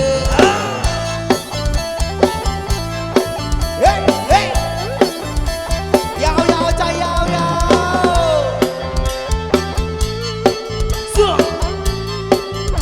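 Live band playing an instrumental passage of a Thai-Isan dance song: a drum kit keeps a steady beat under a lead melody with gliding, bending notes.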